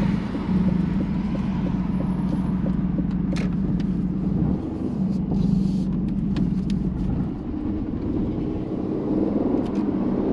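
2020 Aston Martin Vantage's twin-turbo V8 through a Quicksilver straight-piped exhaust, running at low revs at low speed. The revs rise near the end as the car accelerates.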